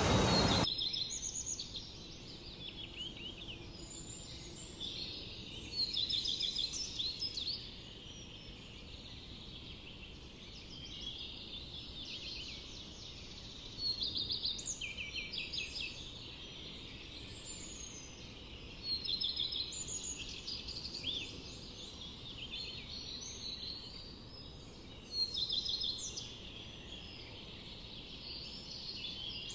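Forest songbird chorus: many birds chirping and trilling at once, with louder bursts of song every few seconds. A loud rushing noise cuts off abruptly within the first second.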